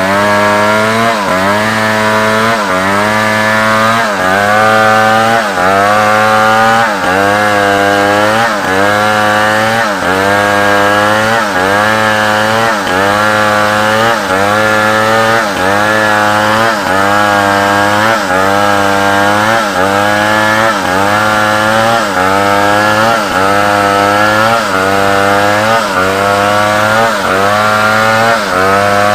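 Large chainsaw running at full throttle while cutting through wood, its engine pitch sagging and recovering about once a second as the bar loads up in the cut.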